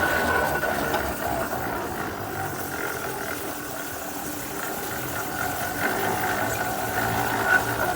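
Half-scale 65 hp Case steam traction engine running, a steady mechanical sound with a high tone over a rattle of gearing. It softens a little midway and picks up again near the end.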